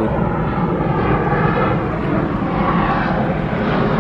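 Car engine running with a steady, loud drone.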